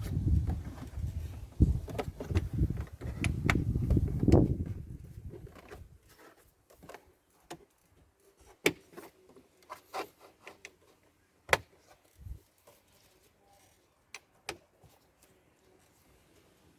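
A low rumble with clicks that dies away about five seconds in, then scattered light clicks and knocks.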